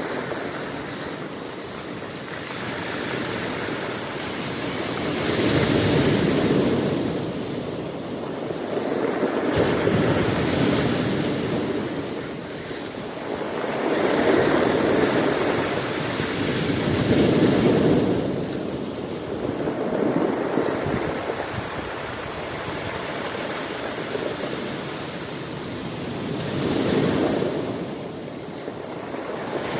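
Ocean surf: waves rushing in and washing back, swelling loud and fading about every three to five seconds.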